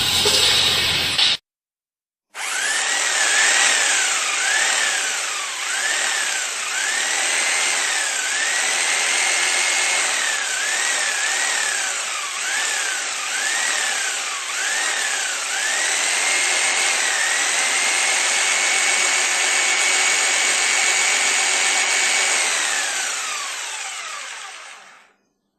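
Electric power drill revved in a series of short trigger pulses, its motor whine rising and falling each time, then held at full speed for several seconds before being released and winding down.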